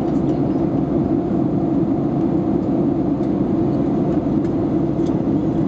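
Steady, deep rushing drone of an airliner cabin in cruising flight, engine and air noise heard from inside the cabin.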